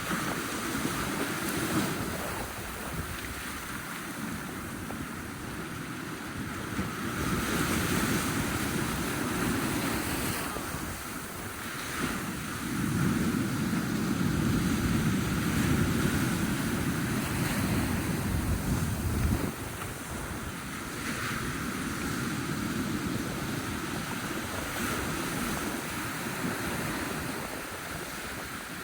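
Ocean waves washing in on the beach and around stranded icebergs, rising in two longer surges, the bigger one about halfway through, with wind rumbling on the microphone.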